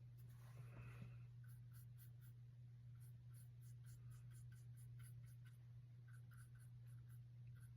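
Faint brush strokes on a canvas: a soft, quick, irregular scratching, over a steady low hum.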